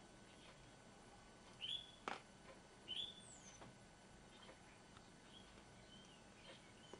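Small songbird giving short, sharp chirps: two louder ones about two and three seconds in, then several fainter ones. A sharp click comes just after the first chirp, and a thin high whistle falls in pitch just after the second.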